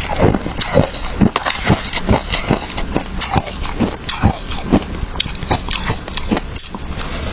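Close-miked chewing of crunchy shaved ice flavoured with matcha: a steady run of sharp crunches, about three a second.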